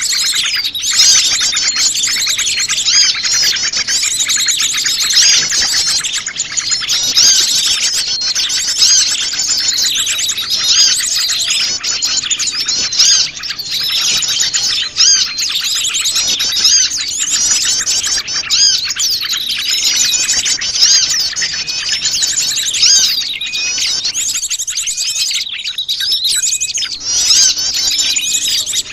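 Dense chorus of many small wild birds chirping and twittering at once, their rapid overlapping calls running without a break.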